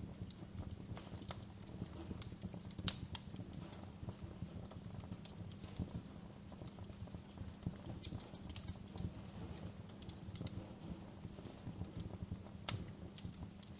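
Wood fire crackling in a fireplace: irregular sharp pops and snaps over a steady low rumble of flames, with a louder pop about three seconds in and another near the end.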